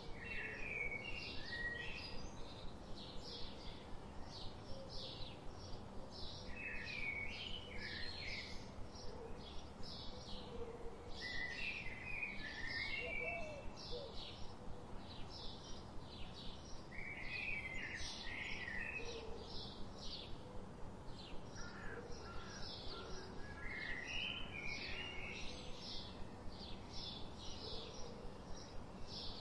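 Outdoor birdsong ambience: a regular stream of short high chirps at two to three a second, with a warbling phrase of lower notes every few seconds, over a steady background hiss.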